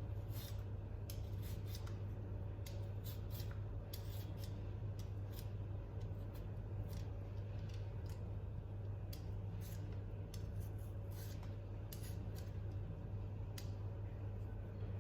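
Irregular quick, sharp snips and scratches of small hand-work, several a second at times, over a steady low hum.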